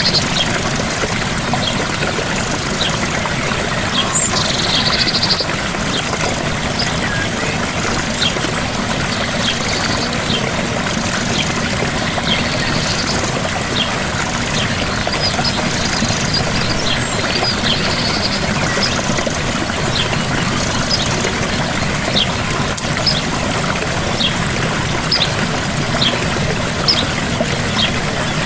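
Small waterfall splashing and rushing steadily. Short high chirps from an animal recur about once a second over the water, with a couple of longer calls in the first few seconds.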